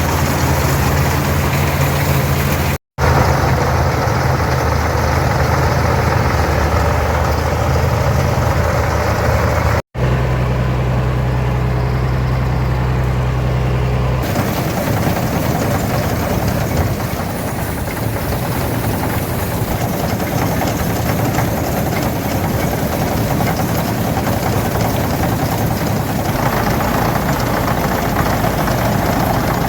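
Farmall 460 diesel tractor engine running steadily while it pulls and drives an International 82 pull-type combine harvesting oats, with the combine's machinery running along with it. About halfway, the steady engine hum gives way to a noisier mechanical clatter.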